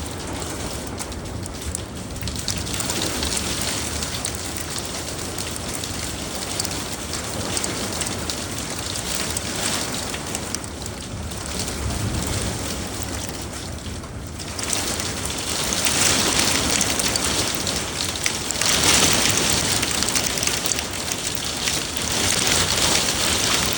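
Heavy thunderstorm rain pouring down in a steady dense hiss, swelling louder in surges about two-thirds of the way through.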